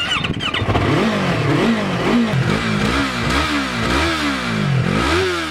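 Yamaha R3's 321cc parallel-twin engine revved in quick repeated throttle blips, about two a second, its pitch rising and falling each time.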